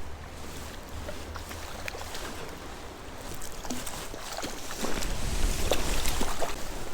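Creek water splashing and sloshing while a hooked trout is played in and landed, with scattered light clicks and taps. A low rumble on the microphone builds about five seconds in.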